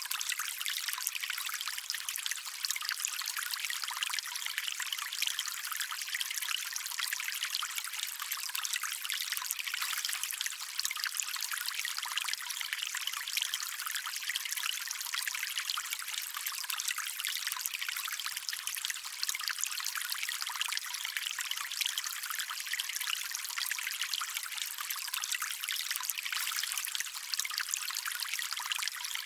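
A small stream's water trickling and splashing steadily over stones, a bright, hissy sound with little low rumble.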